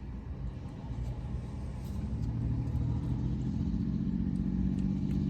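A vehicle engine running with a low, steady hum that grows louder over the first few seconds and then holds.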